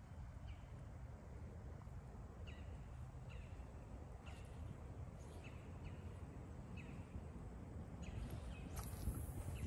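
A bird calling over and over in short chirps that slide down in pitch, about one or two a second, over a steady low rumble. A brief hiss comes near the end.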